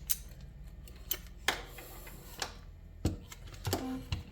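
Irregular sharp clicks and taps of small hard RC car suspension parts being handled and fitted together, about six or seven in all, a little louder around the middle and near the end.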